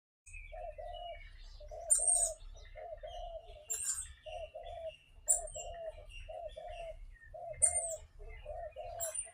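A dove cooing over and over in low double notes, about one pair a second, while other birds give short, sharp, high-pitched chirps every second or two.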